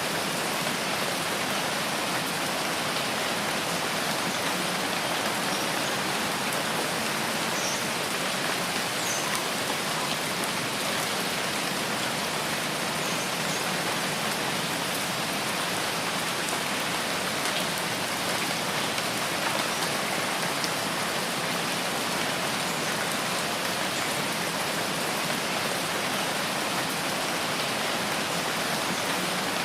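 Steady rain falling on foliage in a rain forest: an even, unbroken hiss of rain with faint scattered drop ticks.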